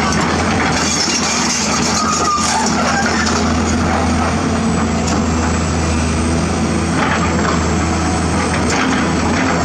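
Diesel engine of heavy construction equipment running steadily, a constant low hum that holds its level throughout.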